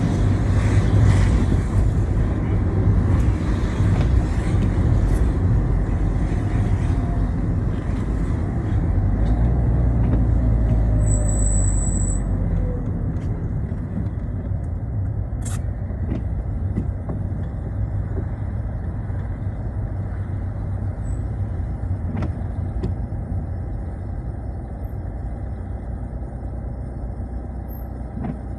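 Citroën Xsara driving on a wet road in the rain: a steady low engine and road rumble under the hiss of tyres on wet tarmac. The hiss is strongest for the first ten seconds or so, then the whole sound eases off gradually.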